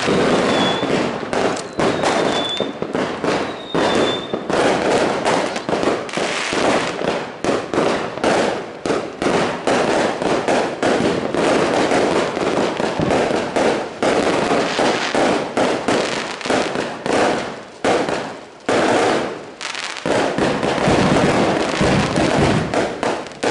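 Many fireworks going off together: a dense, continuous crackle of bangs and pops from aerial fireworks bursting. A few short, high whistles sound in the first few seconds.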